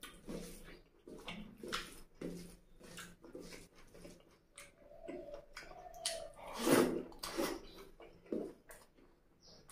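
Close-miked wet chewing and lip smacks of a mouthful of rice and mutton curry, with squishing of food being mixed by hand on the plate, in a run of short irregular smacks. A longer, louder wet sound comes about seven seconds in.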